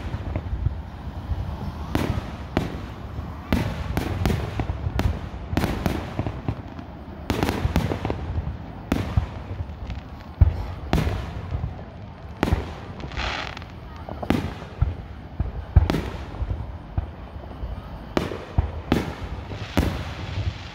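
Aerial firework shells bursting one after another, about twenty sharp bangs at irregular gaps of roughly a second, over a constant low rumble.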